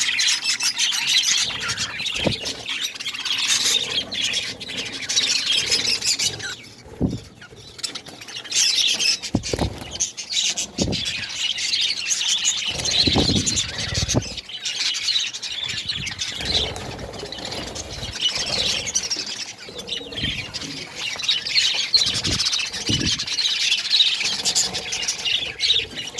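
A flock of budgerigars chattering and chirping without a break, with a few dull knocks mixed in.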